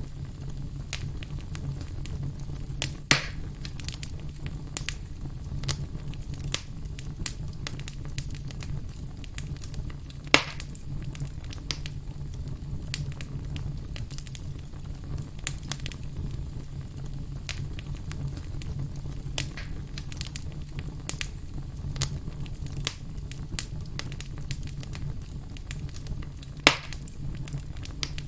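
Firewood burning, crackling steadily with many small snaps over a low rumble. Three sharp, louder pops come through it: one about 3 seconds in, one about 10 seconds in and one near the end.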